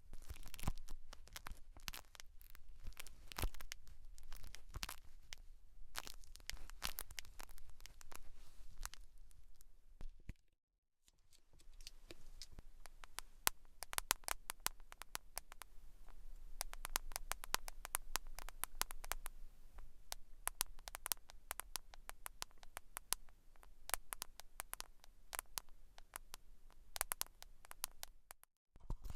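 Close-miked scratching and crackling on hair and scalp during ASMR scalp care: a dense, irregular run of small crackles. It breaks off into silence for about a second a third of the way in, and again briefly near the end.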